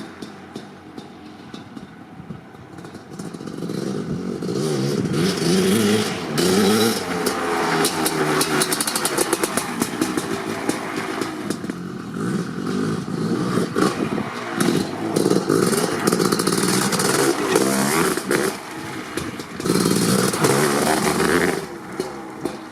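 Kawasaki KX500's big single-cylinder two-stroke engine through an FMF Gnarly pipe, running low for the first few seconds, then revved hard over and over, its pitch rising and falling, before easing off near the end.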